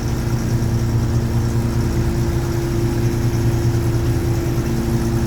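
Fishing boat's engine running with a steady, unchanging hum.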